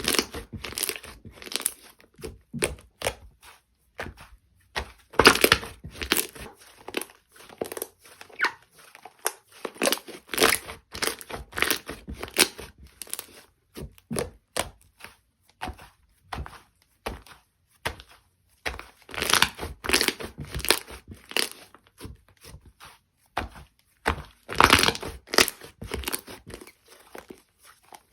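Slime being squished, pressed and stretched by hand, giving irregular clusters of sharp clicks and pops with brief pauses between handfuls.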